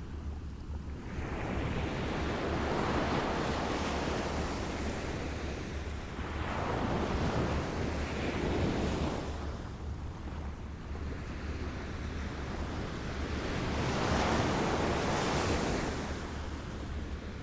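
Small waves lapping, washing in three times a few seconds apart, each wash swelling and fading away.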